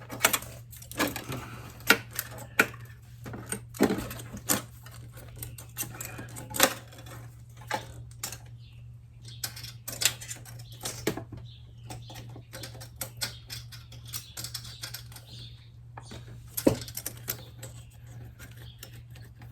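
Irregular light metallic clicks and taps of a feeler gauge set being handled, its thin steel blades worked into a valve's clearance to measure the gap, over a steady low hum.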